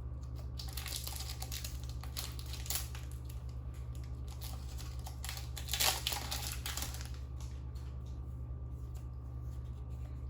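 Trading card booster pack being handled and torn open: irregular crinkling and tearing of the foil wrapper, loudest about six seconds in, then quieter rustling of the cards. A steady low hum sits underneath.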